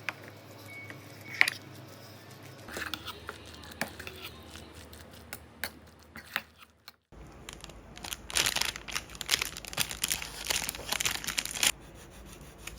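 Wrapping being handled: a few scattered clicks and taps, then about four seconds of dense crinkling and tearing.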